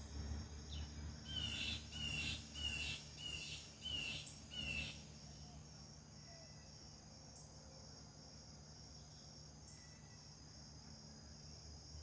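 A bird calling six times in quick succession, each call a short down-slurred note, about one and a half a second, over a steady high insect trill.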